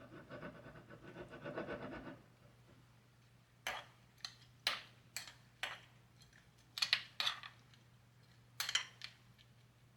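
Soft rustling for about two seconds, then a run of light, irregular clicks and taps, about nine in all, as small objects are handled and set down, over a faint steady hum.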